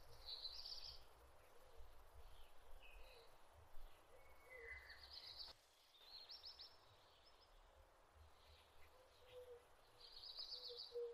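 Faint birds chirping, short high chirps and trills repeating several times over a low background rumble.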